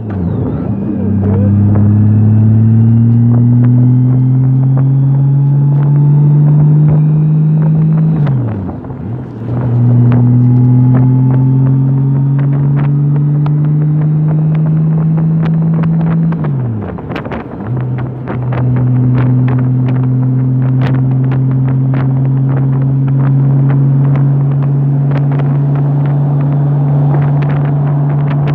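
Honda motorcycle engine pulling up through the gears. The pitch climbs steadily and drops sharply at an upshift about eight seconds in. It climbs again, drops at another shift after about sixteen seconds, then holds steady at cruising speed.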